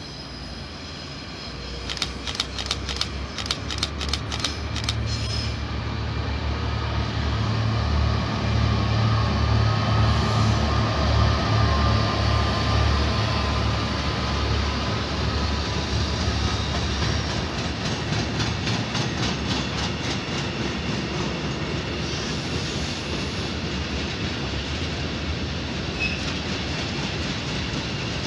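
A freight train of loaded flat wagons rolling past, its wheels clicking in quick runs over the rail joints, with a low rumble that grows loudest near the middle and then eases to a steady run.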